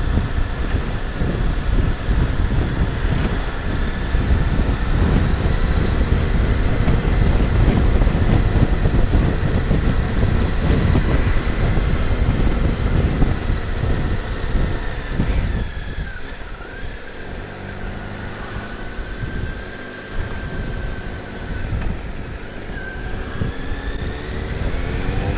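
Motorcycle engine and aftermarket exhaust running under way, with heavy wind noise on the microphone. About two-thirds of the way through the engine note drops as the bike slows, and near the end it rises again as the rider speeds up.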